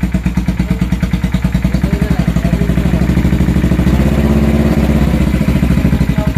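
Suzuki GSX 500 motorcycle's air-cooled parallel-twin engine running through an aftermarket exhaust with a loud, even low beat. The revs pick up a little about three seconds in and hold higher.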